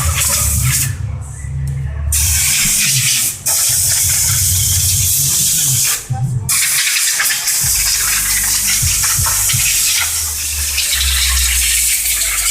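High-pressure water jet spraying onto a car's engine bay, a steady hiss with a low pump rumble under it. It stops briefly about a second in and again around six seconds, then resumes.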